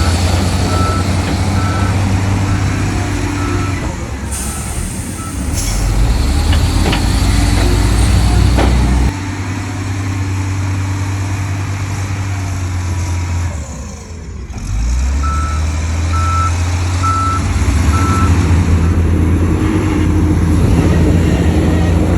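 Heavy diesel earthmoving machinery running with a deep drone, while a reversing alarm beeps in two spells: a run of quick beeps in the first few seconds and four slower beeps about two-thirds of the way through. Two short air hisses sound around four and five seconds in, and the engine note drops about nine seconds in.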